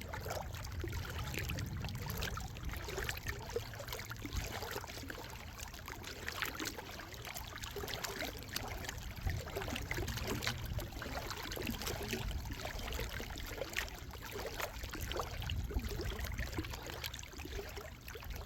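Water lapping and trickling, with many small irregular splashes and a steady low rumble underneath.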